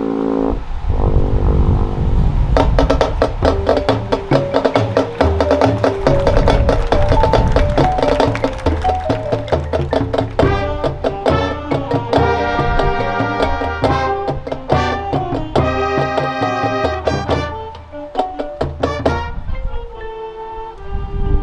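High school marching band playing, with the drums and pitched percussion carrying a fast, busy rhythm under sustained band notes. The sound thins out briefly near the end, then the pitched notes return.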